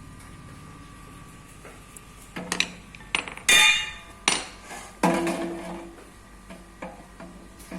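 Metal clanks and knocks from work on a washing machine's drum and spider arm: a faint steady hum at first, then about two seconds in a run of sharp strikes with a ringing tail, the loudest near the middle, followed by a few lighter knocks.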